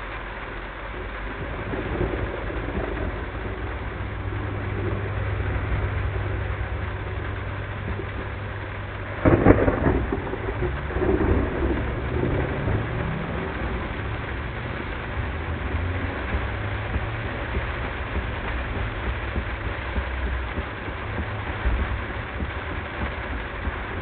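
Heavy rain during a thunderstorm, heard from a moving car with a low engine and road hum underneath. A sudden loud thunderclap about nine seconds in, followed by a few seconds of rumbling.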